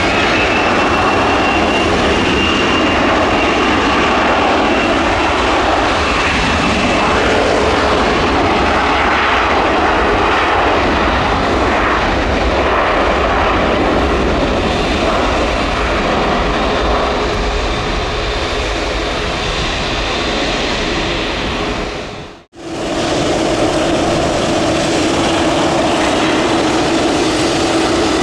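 Gulfstream G450 business jet taking off, its twin Rolls-Royce Tay turbofans at full power: a high, steady whine over a loud rushing roar. About 22 seconds in the sound cuts off abruptly and is replaced by an Airbus A321neo on approach, a steadier, lower engine drone.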